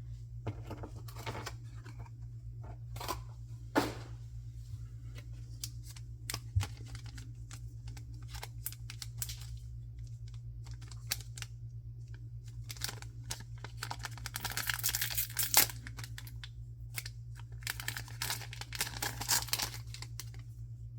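Packaging being torn open and crinkled by hand: scattered crackles and ticks, with two longer stretches of dense rustling and tearing in the second half. A steady low hum runs underneath.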